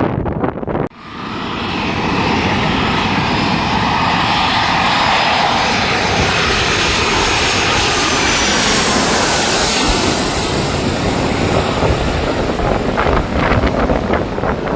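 Fixed-wing aircraft engine noise, loud and steady, coming in abruptly about a second in and easing slightly near the end as the plane flies past.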